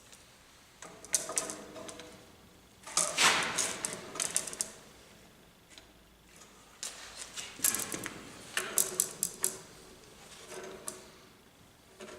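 Metal tape measure being pulled out and snapped back in several bursts of rapid clicking and clatter, as the formwork's diagonals are measured.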